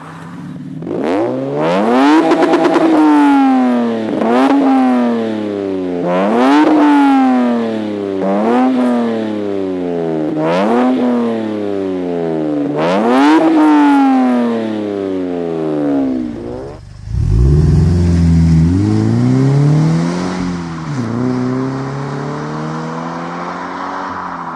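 Car engine revved repeatedly: about six quick climbs in pitch, each falling back more slowly. After a short break about two thirds of the way through, a lower-pitched engine is revved twice more.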